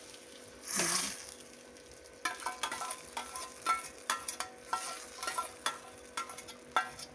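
A metal ladle stirring khichuri in a pot, knocking against the pot in repeated ringing clinks, about two a second, from about two seconds in. Before that, a faint sizzle from the hot ghee and mustard oil tempering just added to it.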